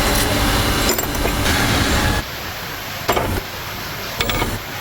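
Diesel engine running steadily, cut off abruptly about two seconds in, followed by a quieter stretch with two sharp metallic clicks.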